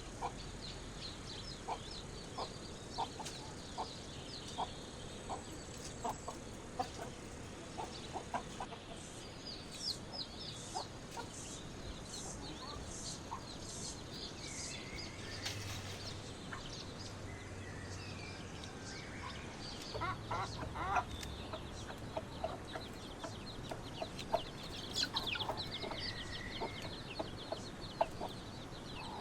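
Chickens clucking, with short calls repeated on and off.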